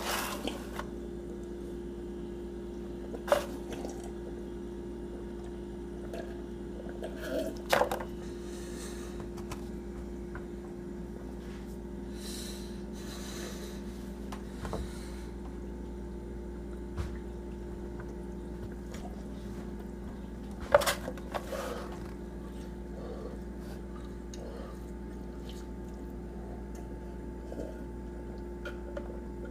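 A man eating through a large pile of burgers and bacon: a few scattered wet, squishy mouthfuls and knocks, the loudest about 3, 8 and 21 seconds in, over a steady electrical hum.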